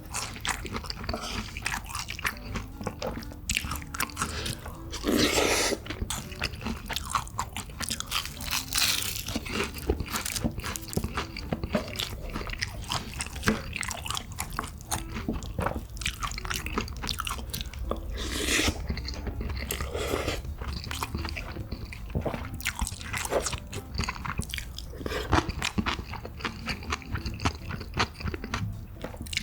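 Close-miked mukbang eating: a person chewing and biting food with many small wet clicks and crunches, and a few louder mouth sounds about five, nine and eighteen seconds in.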